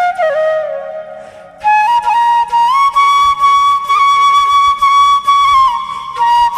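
Background music carried by a flute melody. A phrase fades out in the first second; then a new phrase steps up to one long held note lasting about three seconds, and the melody moves on again near the end.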